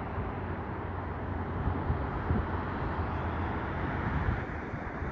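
Steady outdoor rumble of distant vehicle traffic, with wind buffeting the microphone in low gusts.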